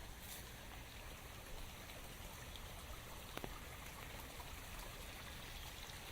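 Steady rain falling in a forest, an even hiss with the odd nearby drop ticking sharply, one about three and a half seconds in.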